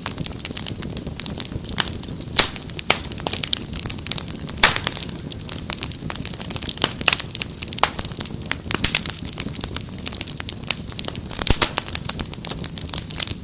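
Wood fire crackling, with irregular sharp pops and snaps over a steady low rumble; the loudest pops come about two and a half, four and a half and eleven and a half seconds in.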